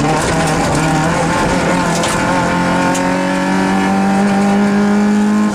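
Rally car engine heard from inside the car, pulling under load. Its pitch wavers for the first couple of seconds, then climbs steadily for about three seconds before dropping at a gear change near the end.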